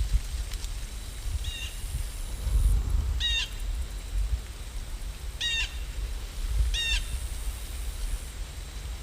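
A bird giving four short calls a second or two apart, the first one faint, over a steady hiss and low rumble.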